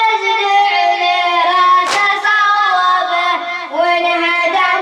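A boy reciter chanting a Muharram lament in Arabic, high voice with long held, wavering notes; one sharp hand strike about two seconds in, the chest-beating of latm that keeps time with the chant.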